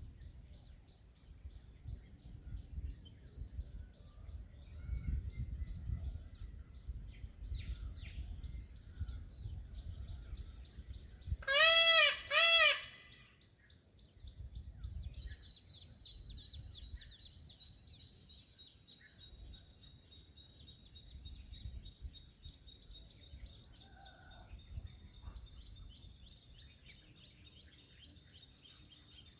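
A peacock giving two loud calls in quick succession about halfway through, each a short wail that rises and falls in pitch. Other birds chirp faintly throughout, and a low rumble of wind on the microphone comes and goes in the first half.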